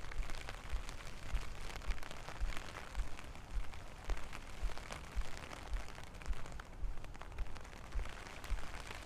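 Steady rain falling, with many small drop taps, and walking footsteps thudding low and evenly about twice a second.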